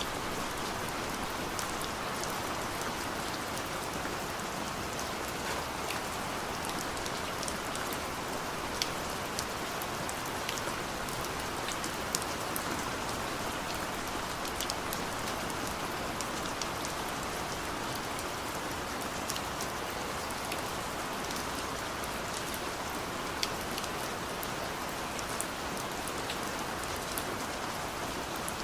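Steady rain heard from inside a car: a dense, even patter with scattered sharper single drop ticks.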